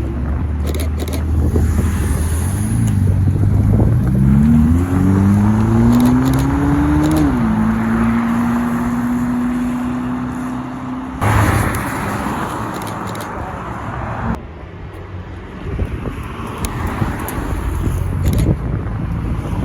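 A supercar's engine revs up as it accelerates away, its pitch rising for about three seconds before dropping sharply at an upshift. It then holds a steady note. The sound changes abruptly about eleven seconds in, and again about three seconds later.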